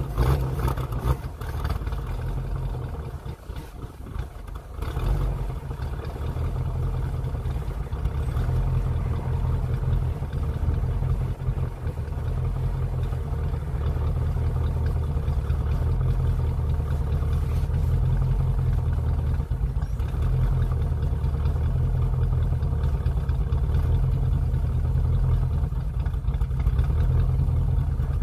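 1956 Ford Fairlane's engine running steadily with a low rumble from the exhaust. It is running again after an ignition tune-up and a Holley Teapot carburetor rebuild.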